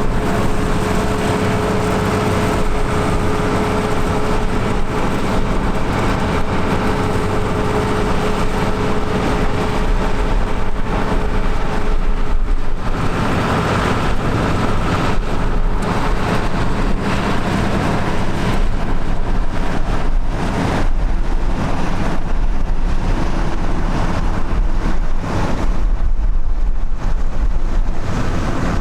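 Vintage tractor engine running steadily, with a held whine in the first dozen seconds. Later the sound turns to a rougher rumble, with gusts of wind buffeting the microphone.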